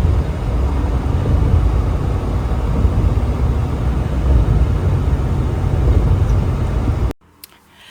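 Steady rumble of a truck travelling at highway speed, engine and road noise together, cutting off abruptly near the end.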